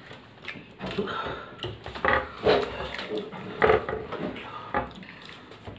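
Close-up chewing and mouth-smacking sounds of a person eating, coming in irregular bursts, with a few short hummed sounds.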